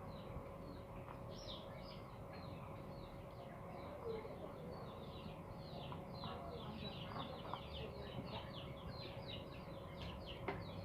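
A small bird chirping, a rapid run of short, high, downward-sliding notes that grows busier in the second half, over a faint steady hum.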